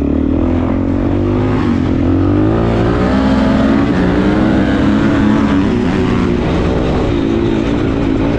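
Suzuki DRZ400S single-cylinder four-stroke dirt bike engine running under way through an aftermarket exhaust, its revs rising and falling as it is ridden.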